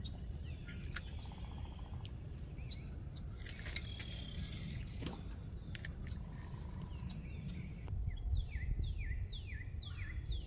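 A songbird singing a quick run of falling whistled notes, about two or three a second, starting about eight seconds in. Under it a steady low rumble and a few sharp clicks.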